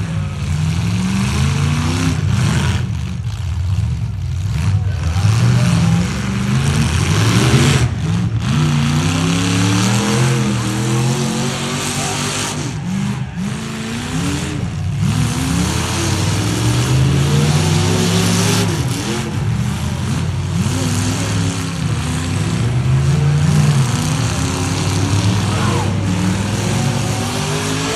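Demolition derby trucks' engines revving hard, pitch climbing and falling again and again, several engines overlapping.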